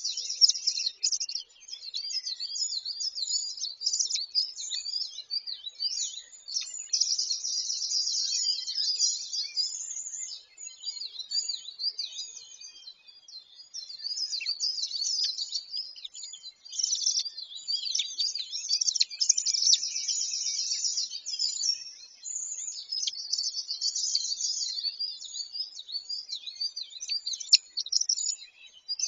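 Birds chirping and singing: many high-pitched chirps and trills overlapping, with a brief lull about midway.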